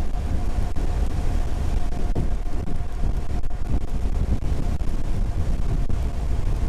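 Strong wind buffeting the microphone of a moving electric bike, a steady low rumble with a faint steady whine underneath.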